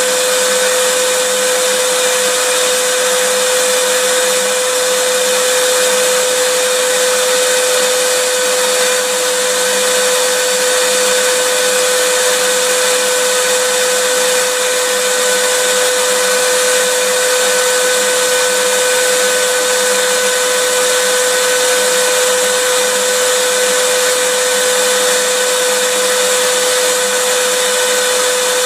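Vacuum cleaner motor running steadily: a constant rushing hiss with a steady whine, never changing.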